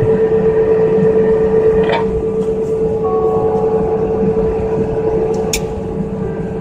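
Airliner cabin noise while taxiing after landing: a steady low rumble with a constant mid-pitched hum, broken by short clicks about two and five and a half seconds in.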